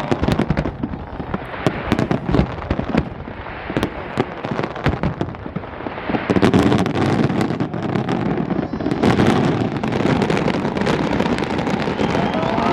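Fireworks display: a rapid string of sharp bangs and pops, turning about halfway through into a dense, continuous crackling.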